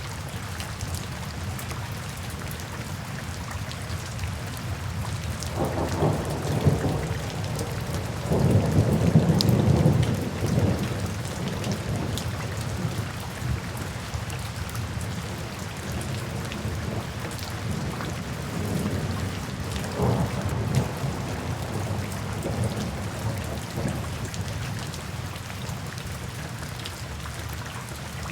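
Steady rain falling, with low rolls of thunder rumbling through it: the loudest about a third of the way in and a smaller one about two-thirds in.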